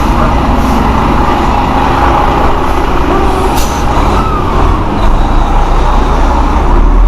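Semi truck running, a loud steady mix of diesel engine and road noise.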